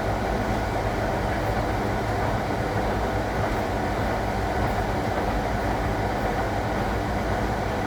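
1961 AEG Lavamat Noris washing machine running, a steady hum and rumble from its motor and drum that holds at one level.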